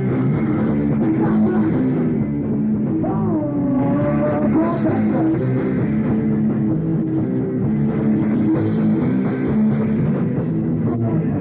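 Rock band playing live, with guitars and drums at a steady loud level and a wavering held note about three seconds in.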